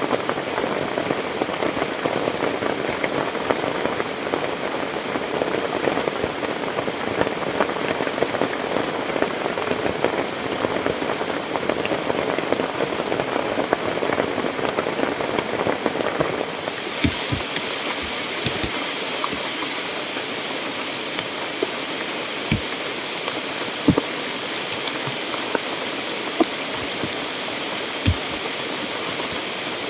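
Heavy rain with rushing water. About seventeen seconds in, the sound changes abruptly to a brighter, even rain hiss, with occasional heavy drops striking close by every second or two.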